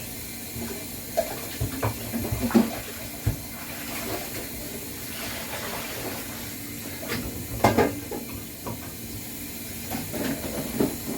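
Tap water running steadily into a sink during dishwashing, with dishes and utensils knocking and clattering now and then, most around the second and third seconds and again near the eighth.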